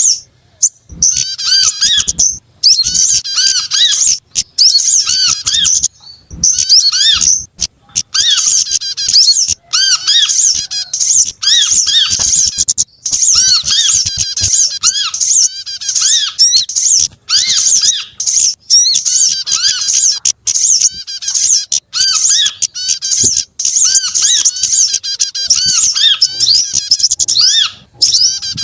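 Recorded bird-lure call track: a dense mix of small songbirds chirping and twittering rapidly. There is a constant stream of high, sharp notes, with short arched call notes repeated about once or twice a second underneath. It is played to draw small birds in.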